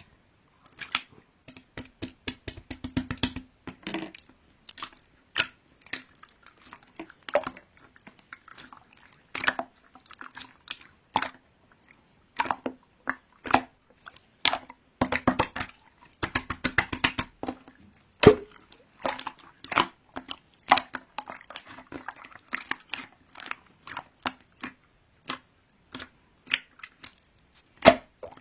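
Crunchy chewing: many crisp, irregular crunches, several a second.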